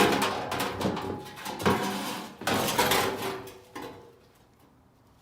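Sheet-metal clanking and scraping as the air handler's cleaned blower wheel and housing are handled for reassembly, in several clattering bursts that stop about four seconds in.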